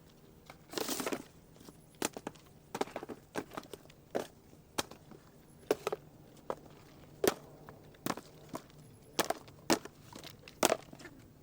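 Dried seed bottle gourds being struck and broken open to get at the seeds: irregular sharp knocks and cracks, about one or two a second, with a longer crunch of breaking shell about a second in.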